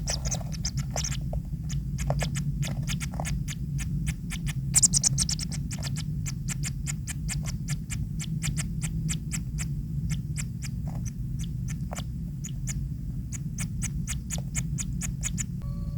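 Kingfisher chicks in the nest: a run of sharp clicks, a few a second, with short high rasping bursts near the start and again about five seconds in, over a steady low hum.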